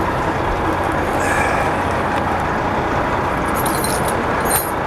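Steady vehicle running noise: a constant low hum under an even rush, with a brief clicking rattle near the end.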